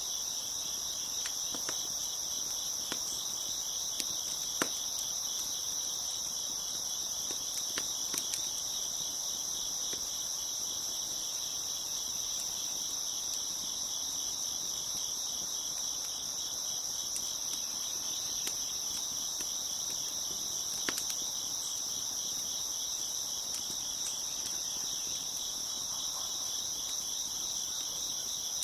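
Dense, steady chorus of crickets chirping, with a few sharp pops and crackles from a wood fire scattered through it.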